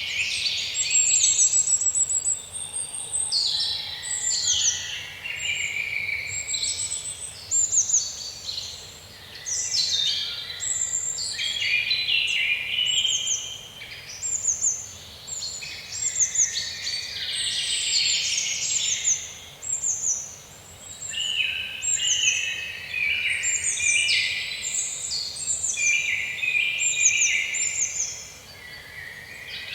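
Woodland birds singing and calling, many short high chirps and trills overlapping in a busy chorus.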